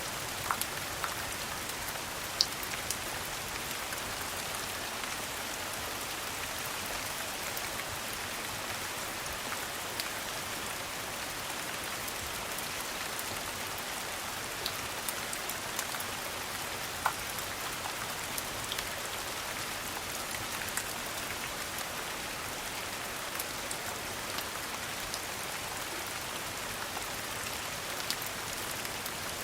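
Steady rain falling, an even hiss with scattered short, sharp pops and clicks throughout.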